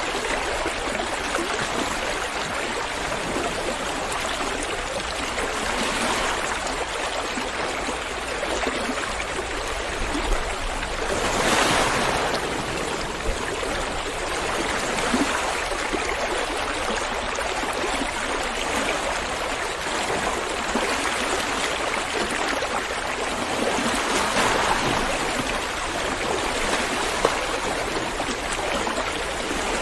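River water flowing, a steady rush with a few soft swells in strength.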